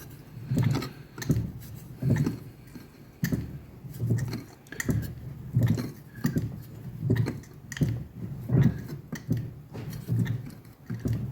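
Fly press stroking over and over, each stroke a short clunk as the ram bumps the vein tooling into 2 mm steel plate, about one to two strokes a second.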